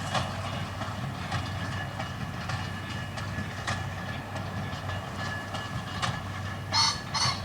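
A steady low mechanical rumble with scattered clicks and a faint steady whine, and two short, sharp pitched sounds near the end.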